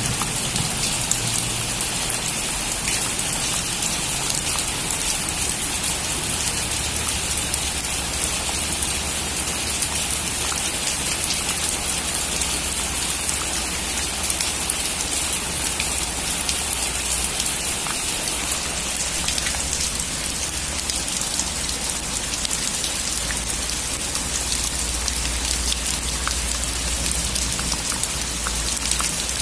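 Steady heavy rain falling on a surface, a constant hiss with scattered individual drop ticks and a faint low rumble underneath.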